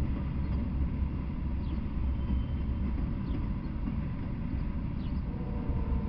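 Steady rumble of a freight train of Norfolk Southern covered hopper cars rolling past, their wheels running over the rails.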